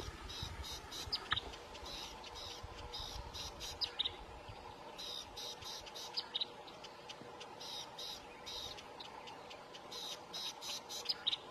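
Birds calling in several bouts of rapid, pulsed high chirps, with a steady faint hum underneath.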